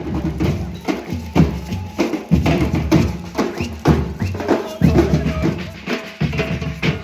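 Music driven by drums and percussion, with heavy low drum hits about twice a second; it starts suddenly out of silence.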